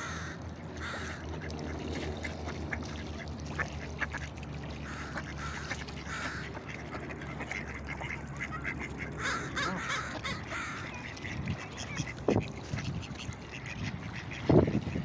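Ducks quacking repeatedly in short calls, over a steady low hum.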